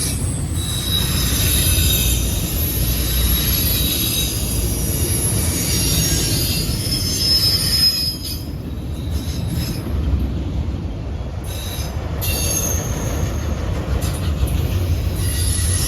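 Autorack freight train rolling past with a steady rumble of wheels on rail, and high-pitched wheel squeal that comes and goes, dropping away for a few seconds in the middle before returning.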